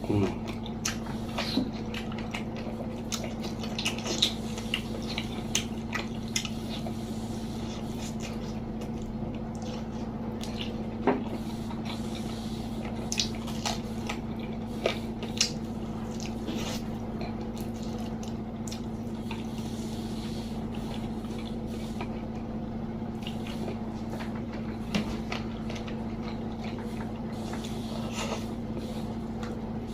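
Close-miked eating sounds of a person chewing chicken curry: wet chewing, squishes and sharp mouth clicks scattered throughout. Under them runs a steady low electrical hum.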